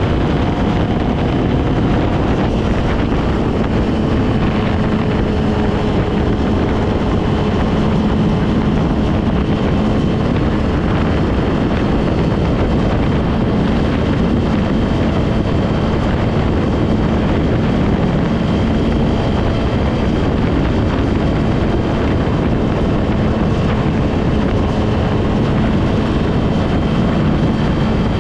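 Yamaha R6 inline-four sport-bike engine running at a steady cruise with little change in pitch, with wind rushing over the microphone.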